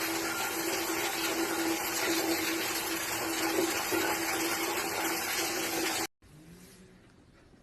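Steady loud rushing noise with a low hum running under it, cutting off suddenly about six seconds in and giving way to faint room sound.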